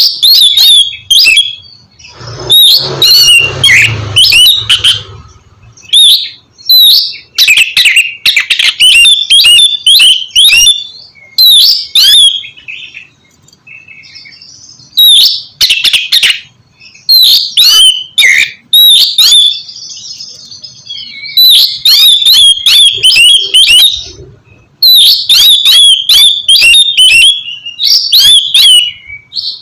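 Oriental magpie-robin (kacer) singing loudly in rapid, varied phrases of whistles and chirps, broken by short pauses, with a harsher, rougher stretch about three seconds in.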